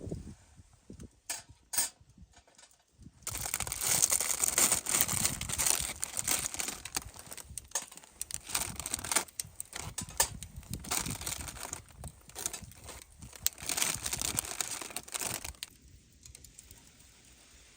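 Irregular crinkling and crumpling noise, dense and uneven, starting a few seconds in and stopping shortly before the end.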